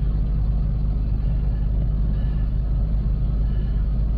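Steady low rumble of a car engine idling, with faint short bird chirps repeating about once a second over it.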